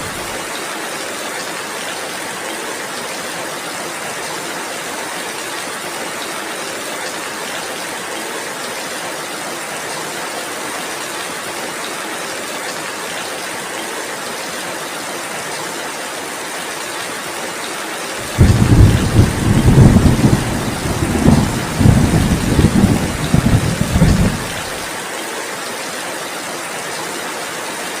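Steady heavy rain, a constant even hiss. About two-thirds of the way through, a loud, deep rumble of thunder comes in suddenly, rolls in several swells for about six seconds, then stops abruptly.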